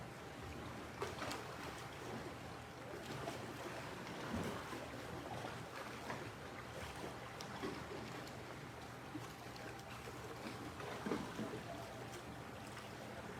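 Faint steady background noise with a low hum, broken by scattered light knocks and rustles.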